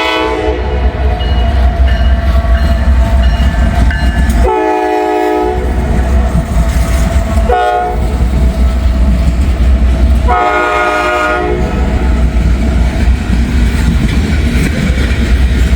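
Norfolk Southern diesel locomotive's horn sounding the grade-crossing signal, long, long, short, long, over the steady rumble of the passing train and clatter of its cars on the rails.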